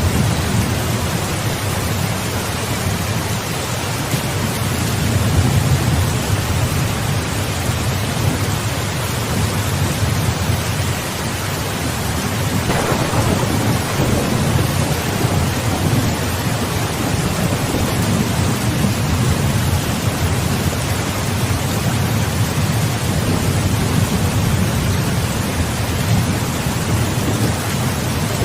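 Steady heavy rain with low rolling thunder that swells and fades throughout. A single short, sharper crack of thunder comes about halfway through.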